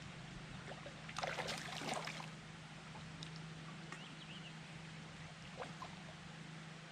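A brief burst of water splashing about a second in, lasting roughly a second, over a low steady background hum.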